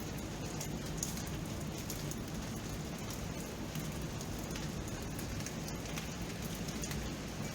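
Steady rain falling at night, an even hiss scattered with individual drops tapping on surfaces, one sharper drop a little after a second in.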